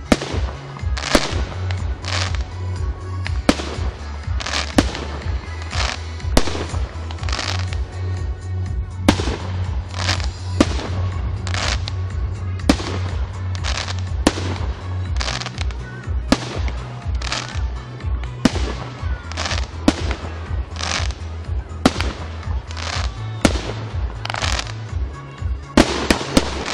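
Aerial fireworks shells bursting, a sharp bang about every second, some trailing off in a smear of crackle. Underneath runs music with a deep bass line.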